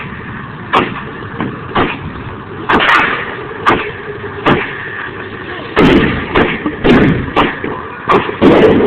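Fireworks exploding: a string of sharp, irregular bangs, sometimes several close together, some followed by a rumbling echo.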